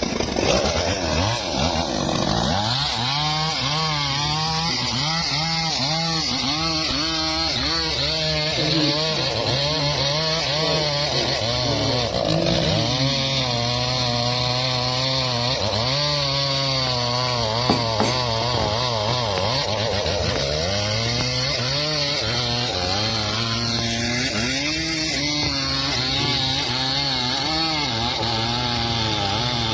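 Chainsaw engine running while cutting wood. Its pitch repeatedly sags and picks up again as the chain is loaded in the cut and frees.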